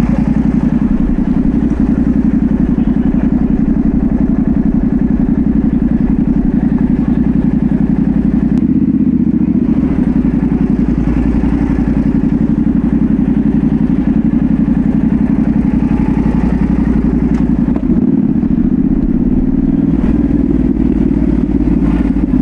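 Yamaha Ténéré 700's 689 cc parallel-twin engine running through a full Dominator GP1 exhaust while riding. The engine note holds steady, with short changes in it about nine seconds in and again near eighteen seconds.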